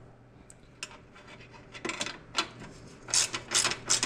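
Ratchet wrench and socket working the 14 mm nut on the exhaust's all-thread stud: a few metal clinks as the tool goes on, then from about three seconds in, quick ratcheting strokes about two to three a second.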